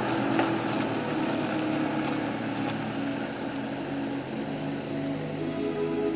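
Small camera drone's propellers whining steadily while it hovers low, the pitch rising a little midway. The drone would not climb above about three metres.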